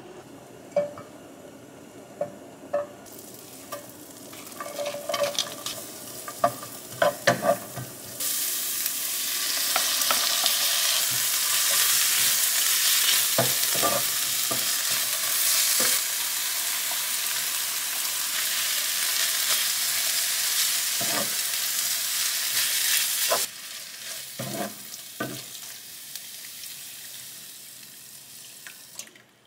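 Onions and red sauce paste sizzling in a nonstick frying pan while being stirred with a spatula. The sizzle starts about a quarter of the way in and cuts off suddenly two-thirds through. Scattered knocks and scrapes of utensils against cookware come before and after it.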